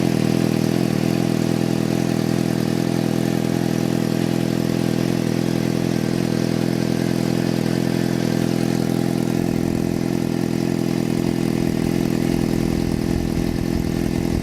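Crosskart's sportbike (crotch rocket) engine idling steadily, with a deeper rumble coming up about two-thirds of the way through.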